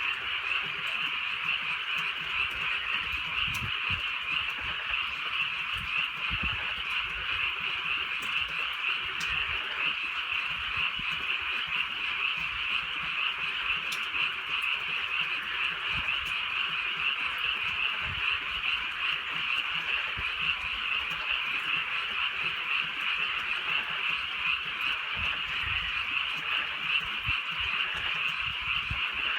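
A dense chorus of many frogs croaking together at night, steady and unbroken, with a few faint scattered ticks above it.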